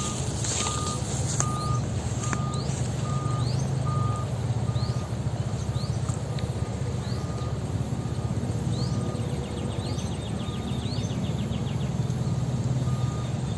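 An even, repeating beep of one steady pitch, about one and a half beeps a second, slowly fading, over a low steady rumble. Short rising chirps come and go throughout.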